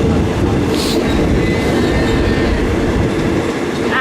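Passenger train running on the track: a steady, loud rumble and rattle of wheels and carriage, with a brief hiss about a second in.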